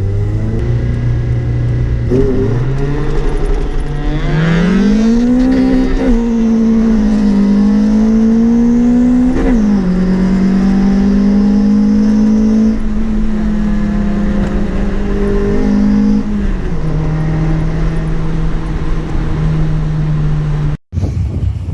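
Four-cylinder car engine accelerating hard: the pitch climbs steeply a few seconds in, then holds high with brief breaks at the gear shifts and steps down after about sixteen seconds. The sound cuts off abruptly near the end.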